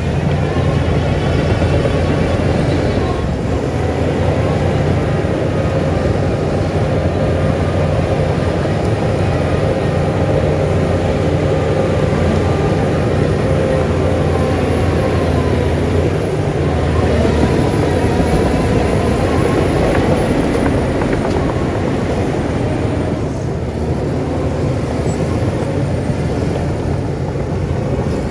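Heavy diesel earthmoving machinery running steadily under load, with a wavering whine above the deep engine note.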